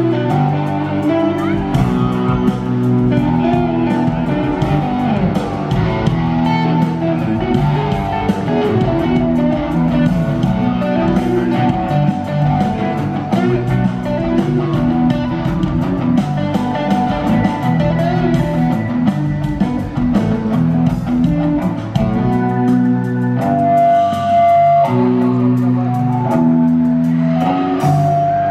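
Live rock band playing an instrumental passage, led by electric guitars, with no vocals.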